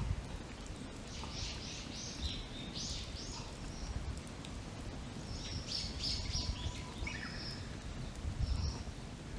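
Birds singing: two phrases of short, quickly repeated high notes, one about a second in and another from the middle to near the end. Beneath them a campfire crackles faintly over a steady low rumble.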